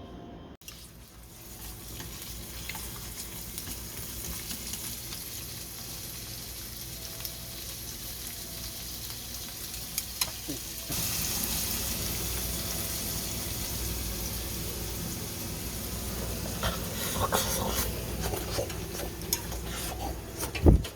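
Food frying in a pan, a steady sizzle that grows louder about halfway through, with a few clicks and knocks near the end.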